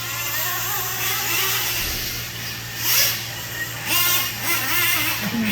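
Small engines of radio-controlled gas racing trucks running on the track, their buzzing pitch rising and falling as the trucks accelerate and back off, several at once.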